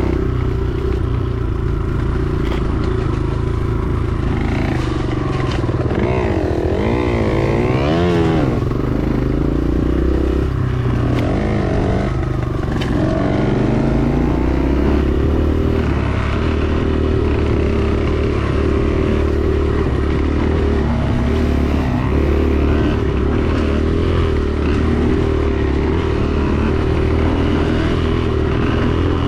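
Dirt bike engine running while riding a trail, revving up and down in quick rises and falls of pitch a few seconds in, then holding a steadier drone.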